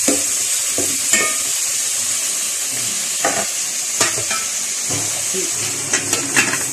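Chicken pieces sizzling steadily in hot butter and oil in an aluminium pot, with a metal spoon stirring and knocking against the pot now and then. Near the end the aluminium lid is set on the pot with a few metallic clinks.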